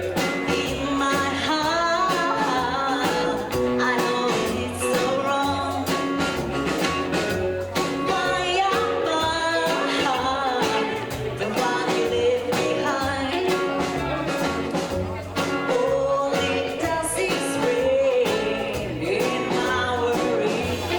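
Live rockabilly band playing a song: a singer's voice over guitar, with a steady, bouncing bass line underneath.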